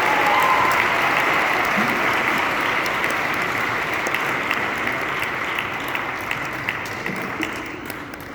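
Audience applauding at the end of a performance, the clapping thinning out and fading away.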